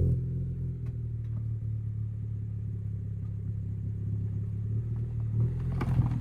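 2013 Honda Civic Si's 2.4-litre four-cylinder idling steadily through an Invidia N1 catback exhaust run without its silencer insert, a low, even exhaust note.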